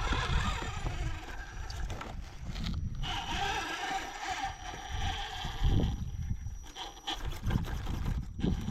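Wind buffeting the microphone in uneven gusts, with a higher steady whirring from about three to six seconds in.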